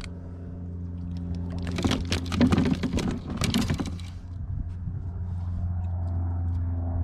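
Vehicle engine running steadily with a low, even hum, heard from inside the cabin. Between about two and four seconds in, a stretch of rustling and handling noise sits over it.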